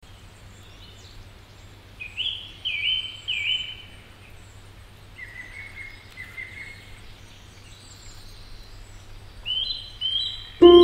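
A songbird calling outdoors in groups of about three short rising whistled notes, repeated three times, over a faint steady low hum. Loud music cuts in abruptly at the very end.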